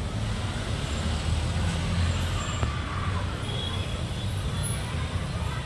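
Steady low engine rumble of a road vehicle.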